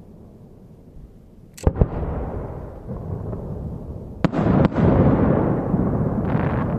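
Aerial firework shells bursting: two sharp bangs about a second and a half in, then two louder bangs just after four seconds, each trailing off in a long rolling rumble of echo. A softer crackle follows near the end.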